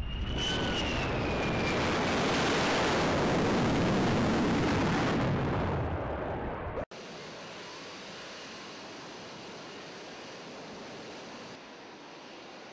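A military jet aircraft passes with a loud rush of engine noise and a high whine, swelling and then fading. It cuts off suddenly about seven seconds in to a quieter steady wind and sea noise.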